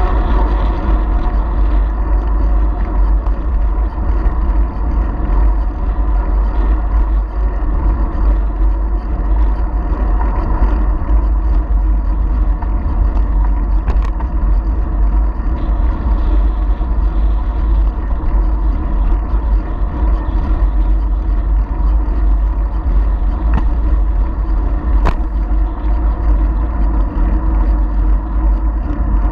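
Wind rushing over a GoPro 4 Silver's microphone while cycling: a steady, loud low rumble, with rolling noise from the bike. Two short sharp clicks, one about midway and one near the end.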